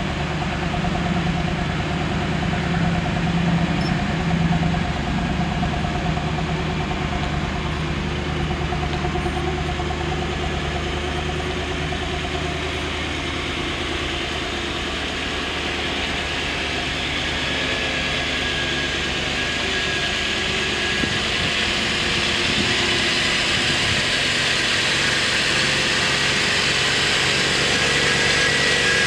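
1987 Chevrolet Camaro convertible's engine idling steadily, a hissing whir growing louder over the second half.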